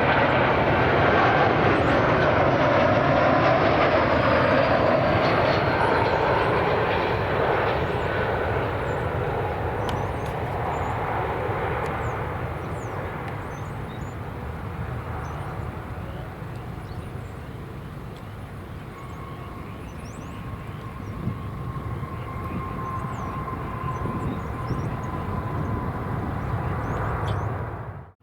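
Jet airliner passing, loud at first and fading away over about ten seconds into a distant engine rumble. A steady engine whine then builds slowly toward the end, and the audio cuts off suddenly.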